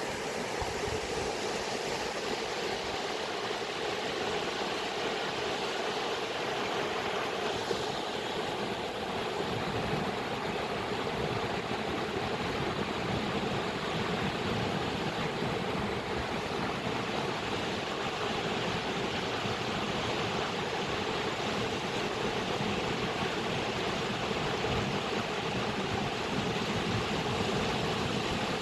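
Flowing water making a steady, unbroken rushing.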